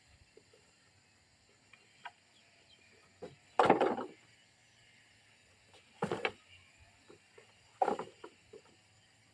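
Three short knocks or clattering impacts, roughly two seconds apart, each with a few quick peaks, with faint ticks between them.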